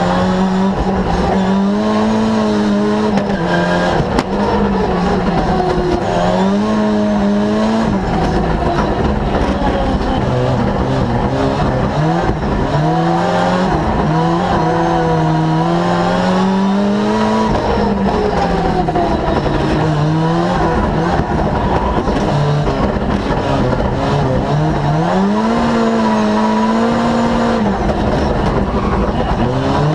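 Ford Sierra Cosworth rally car's turbocharged four-cylinder engine at full effort, its pitch repeatedly climbing and then falling, dropping sharply at each gear change as it is driven hard through a stage.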